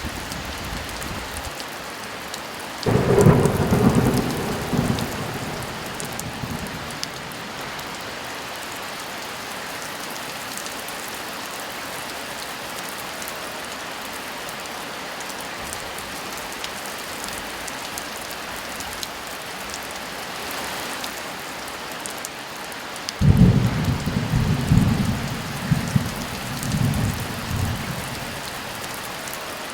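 Steady heavy rain with two rolls of thunder. The first breaks about three seconds in and fades over a few seconds. The second starts suddenly near the end and rumbles in several surges for about five seconds.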